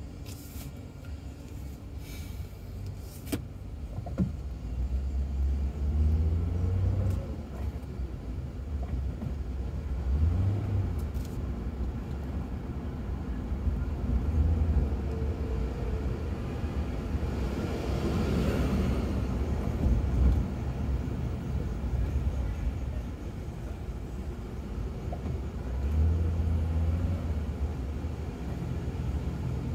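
Ford Crown Victoria V8 engine and tyre rumble heard from inside the cabin in slow city traffic, the engine note rising briefly several times as the car pulls ahead. Around the middle a louder rushing swell builds and fades as something passes close by.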